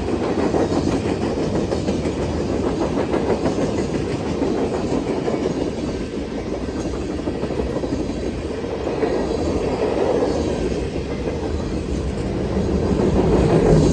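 Freight train cars rolling past at speed: a steady rumble of steel wheels on the rails, with a rapid run of wheel clicks.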